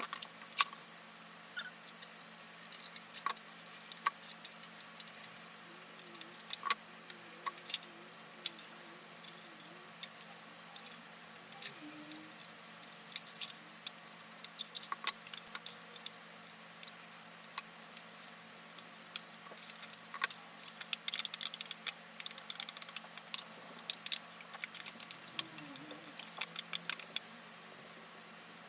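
Scattered light metallic clicks and jingles, as of small metal parts being handled, with a dense run of jingling about two-thirds of the way through.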